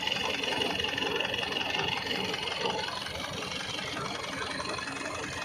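Diesel engine of a TAFE 5900 DI tractor running steadily.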